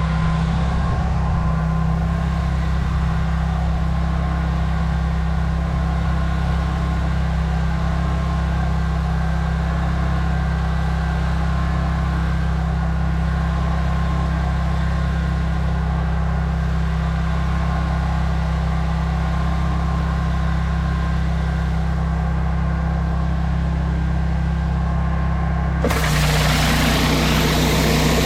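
Pressure washer's petrol engine running steadily. Near the end, a loud hiss of high-pressure water spray starts and the engine note shifts as the pump takes the load.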